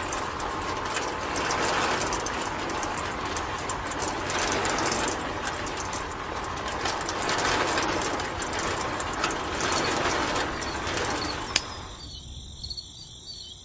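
Steady mechanical rattling of many fine clicks, dropping away after a sharp click about twelve seconds in.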